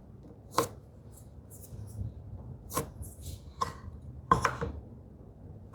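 About five sharp, irregularly spaced knocks of hand-tool work on wood, the loudest a double knock about four seconds in.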